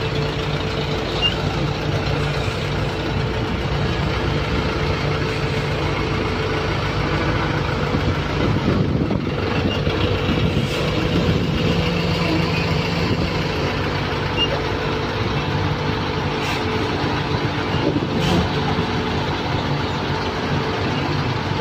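Excavator's diesel engine running steadily at a constant pitch, with a few faint brief knocks.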